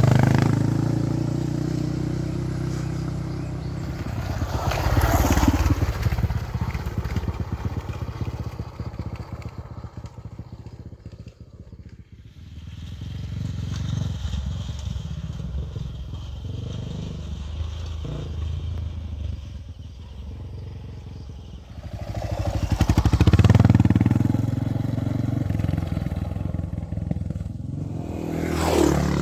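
Honda XR650R single-cylinder four-stroke dirt bike engine running on a trail ride. The revs rise in loud surges about five seconds in and again near the end, with a quieter, lower-revving stretch in the middle.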